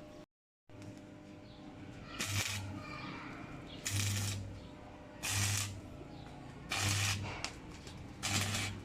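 Five short bursts of stick-welding arc crackle, each about half a second long and roughly a second and a half apart, with a low electrical buzz from the welder under each burst. The sound cuts out completely for a moment about half a second in.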